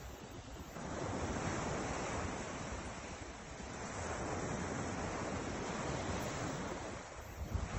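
Ocean surf washing in, swelling and easing off every few seconds, with wind rumbling on the microphone.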